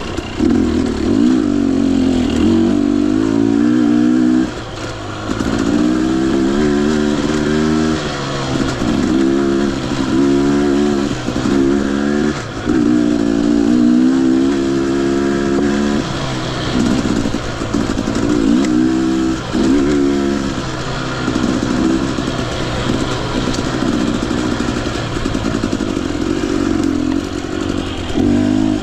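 Two-stroke engine of a 2021 Husqvarna TE 250i dirt bike, revving up and down over and over while it is ridden. The throttle is shut off briefly a few times.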